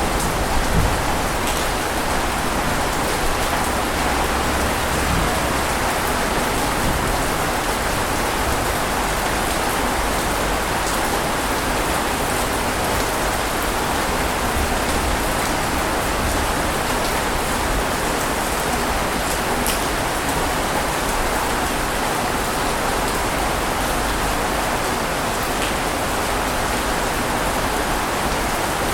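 Steady, even rainfall, with a few faint drop ticks standing out here and there.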